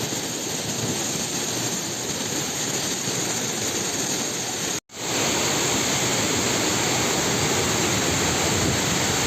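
Steady rush of a waterfall's falling water. It cuts out for a moment about halfway through, then comes back slightly louder.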